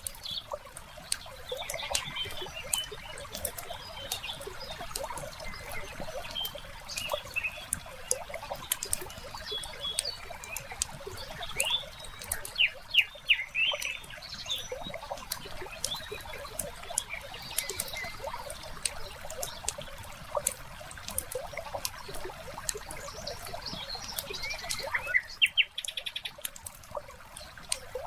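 Wood fire crackling with frequent small pops over a soft trickle of water, with birds chirping now and then, most around the middle and again near the end.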